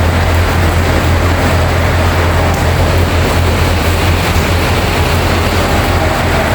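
Heavy rain falling: a loud, steady hiss with a steady low rumble underneath.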